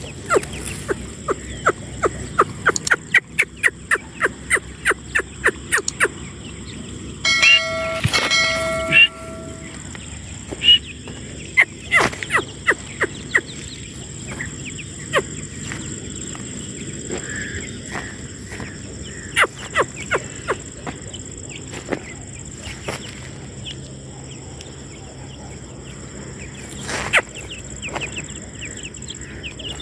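Grey francolin (teetar) giving short sharp call notes in quick runs, about three a second at first, then scattered. About seven seconds in, a steady pitched tone lasts almost two seconds.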